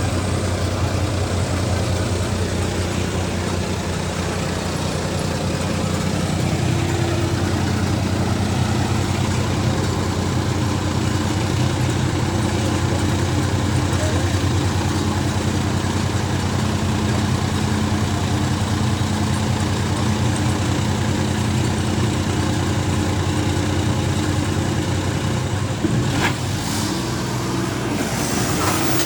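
Diesel tractor engines running steadily under load in a tractor tug-of-war, a constant low drone whose pitch shifts slightly now and then.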